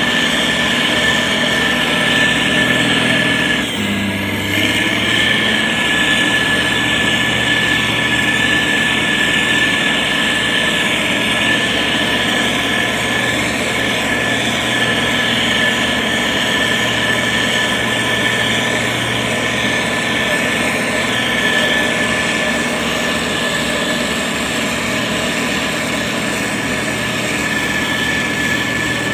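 Diesel engine of a SANY STG190C motor grader running steadily under work, with a constant high whine over the engine note; the engine note shifts briefly about four seconds in.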